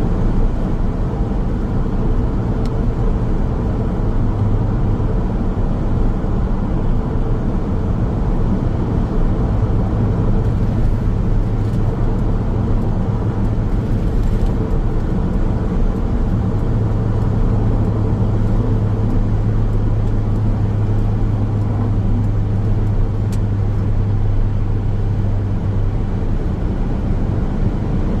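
Car driving along a road at steady speed: continuous tyre and road noise with a low engine drone that swells and eases slightly now and then.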